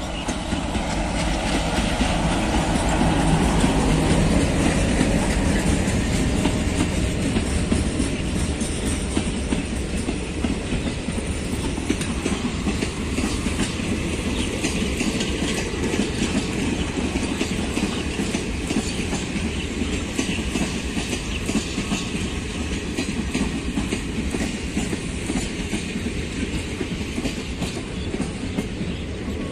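Diesel-hauled passenger train running past the platform: the locomotive noise is loudest a few seconds in as the engines go by, then the coaches' wheels clack steadily over the rail joints.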